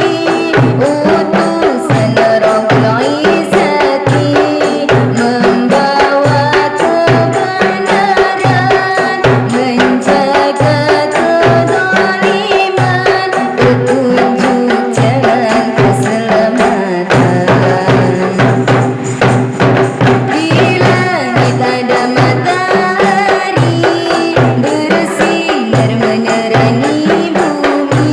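Qasidah ensemble playing: frame-drum strokes in a steady rhythm with tambourine jingles under a melody.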